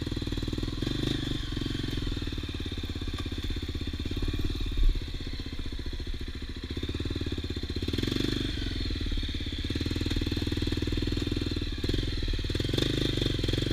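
Single-cylinder four-stroke engine of a Honda XR 250 Tornado trail motorcycle running at low revs as the bike is ridden slowly, with a brief thump about five seconds in.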